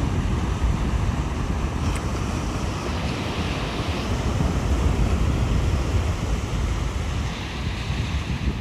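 Sea surf washing on the shore, a steady rush that swells a little about three seconds in and again near the end, with wind buffeting the microphone as a low rumble.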